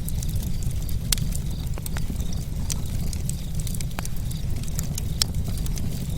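Campfire burning: wood crackling and popping in frequent, irregular sharp snaps over a steady low rumble of flames, with louder pops about a second in and again near four and five seconds in.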